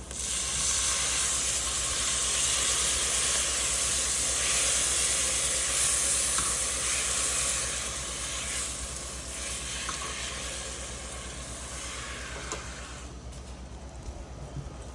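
Chicken broth poured into a hot pot of roux and vegetables, sizzling and hissing hard at first, then dying down over the last several seconds as the liquid cools the pot.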